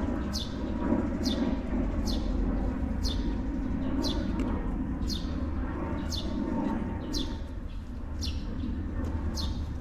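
A bird calling over and over with short, high notes that slide downward, roughly one a second, over a steady low rumble.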